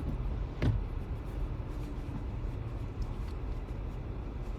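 Steady low rumble of a car heard from inside its cabin, with one short knock about two-thirds of a second in.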